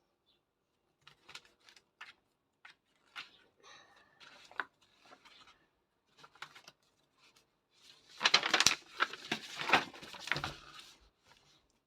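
Pen strokes on paper and paper handling while a drill test is marked: scattered light scratches and taps, then a louder stretch of scratching and rustling from about eight to eleven seconds in.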